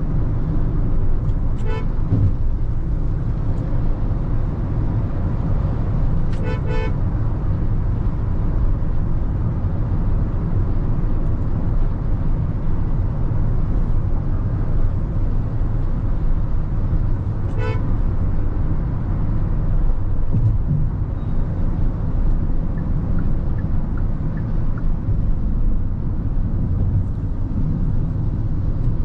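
Steady low rumble of engine and road noise inside a Hyundai Creta 1.5-litre petrol SUV on the move, with short car-horn toots about two seconds in, a double toot around six seconds, and another near eighteen seconds.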